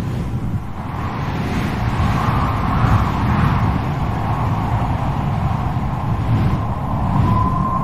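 Strong wind blowing in gusts, a deep rumble under a hollow howl that swells and fades; near the end a thin, steady whistle sets in.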